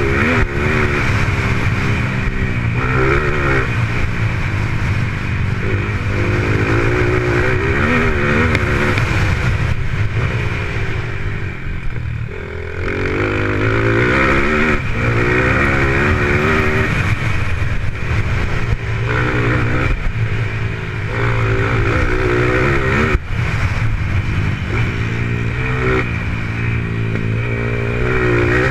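Racing dirt bike engines revving, their pitch rising and falling again and again as the motorcycles accelerate and back off around the track, with more than one engine heard at times.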